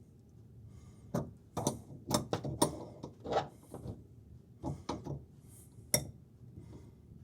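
Irregular light clicks and knocks of hand work on a refrigerator's ice-maker water supply line connection, about ten small strikes, with a sharper one a little before the end.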